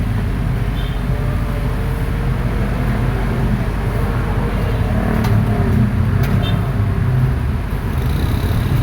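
Hydraulic excavator's diesel engine running steadily, with a couple of sharp clicks about five and six seconds in.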